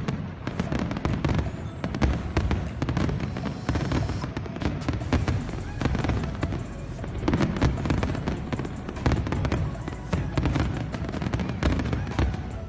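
Fireworks display: a quick, uneven run of bangs and crackles that carries on without a break.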